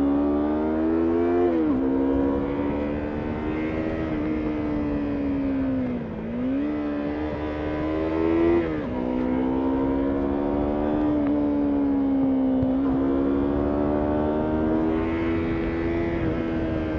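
Yamaha MT-03's parallel-twin engine heard on board, pulling hard uphill: its pitch climbs, drops sharply at gear changes about two seconds and nine seconds in, and sags briefly about six seconds in before picking up again.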